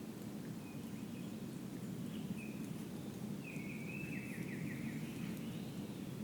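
Small birds calling in woodland: a few short chirps, then a longer warbling phrase of falling notes about three and a half seconds in. Under them runs a steady low rumble.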